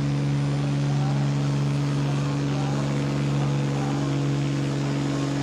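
An engine running at a steady, unchanging speed: a low, even drone with no revving.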